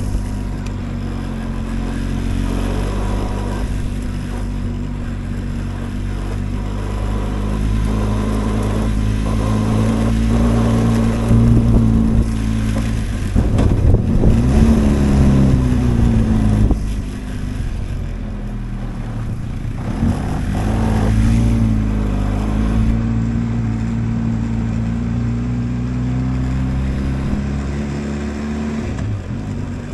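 Adventure motorcycle engine running while riding a rough dirt track, its note falling and rising with throttle and gear changes about halfway through and again a few seconds later.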